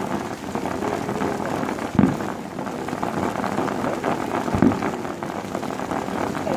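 Fireworks going off: two deep booms, about two and a half seconds apart, over a continuous crackling hiss.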